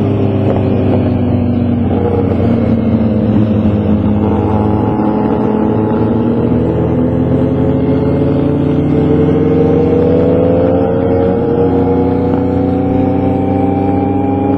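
Motorcycle engine running under way, a steady drone whose pitch sags and then climbs slowly as the throttle changes.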